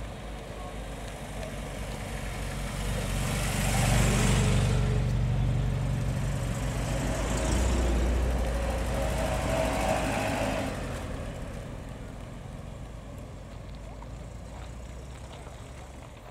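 Classic MG roadsters' four-cylinder engines driving past one after another at low speed. The sound swells to a peak about four seconds in, again from about eight to ten seconds in, then fades as the cars move off.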